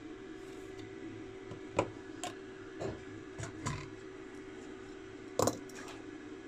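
About six light clicks and knocks over a steady hum, the loudest near the end.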